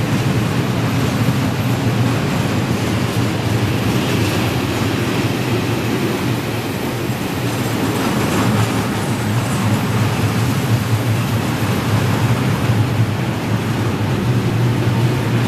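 Freight train of open coal wagons rolling past, a steady rumble of steel wheels on the rails.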